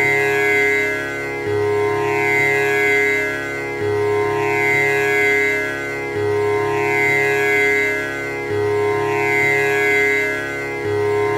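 Tanpura drone: its strings plucked one after another in a cycle that repeats about every two and a half seconds, the notes ringing on with shimmering overtones.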